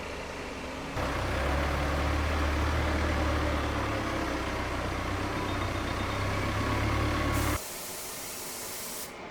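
Machinery running steadily: a low hum under an even hiss. The level jumps up suddenly about a second in and drops just as suddenly to a quieter, thinner running sound near the end.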